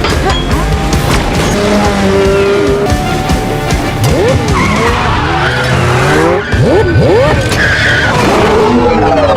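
Action-film car-chase sound mix: a sports car and a motorcycle revving hard, their engine pitch sweeping up and down, with tyres squealing and dramatic score music underneath.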